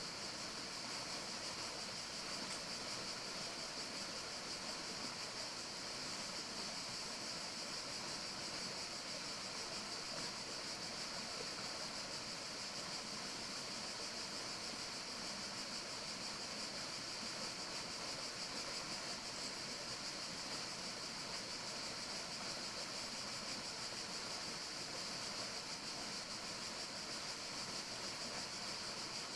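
Steady forest ambience: an even, unbroken hiss, strongest in the high range, with no distinct calls or knocks.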